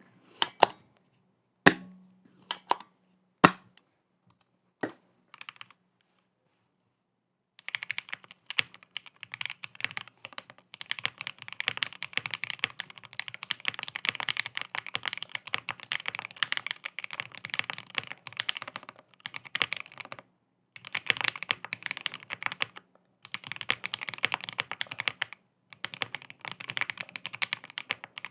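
Typing on a Cannonkey Bakeneko 65 aluminum keyboard with lubed and filmed Tangerine linear switches and polyfill dampening. A few separate keystrokes come first, then continuous fast typing from about eight seconds in, with brief pauses.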